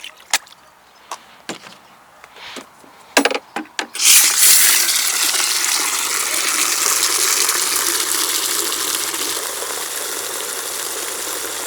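A few handling clicks and knocks, then about four seconds in a hose opens and a strong jet of water pours into a bucket, whipping shampoo into foam; the rush is steady and eases slightly toward the end.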